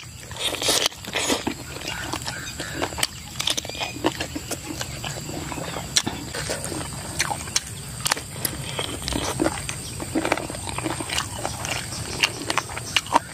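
Close-up wet chewing and lip-smacking while eating chicken feet, with irregular small crunches and mouth clicks.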